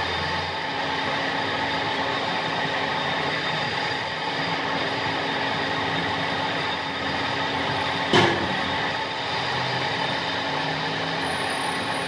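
A machine running steadily with a constant hum, and one sharp knock about eight seconds in.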